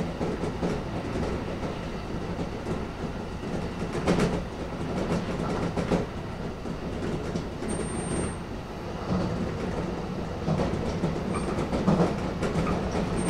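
Electric train running on the rails: a steady rumble with a few sharp clicks of the wheels passing rail joints.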